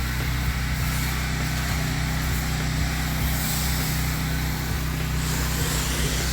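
Pressure washer's engine running steadily at full revs, with the hiss of the wand spraying soap through a downstream injector; the hiss swells and fades as the spray moves.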